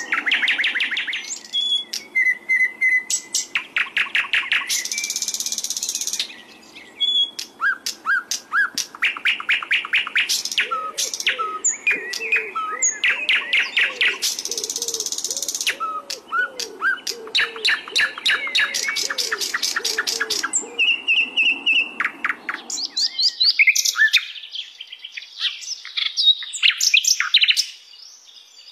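A sikatan londo flycatcher singing a long, varied song of rapid trills, sweeping whistled chirps and a couple of harsh raspy notes. It is the kind of songbird recording used to train caged birds.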